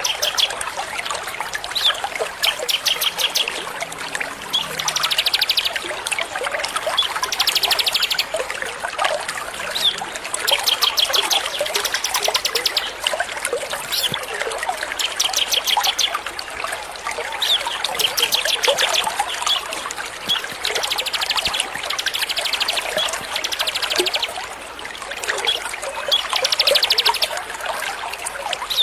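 Small songbirds chirping and singing in a dense chorus, with rapid high trills every couple of seconds, over a steady trickle of running water: a masteran track of small birds used to teach songbirds new phrases.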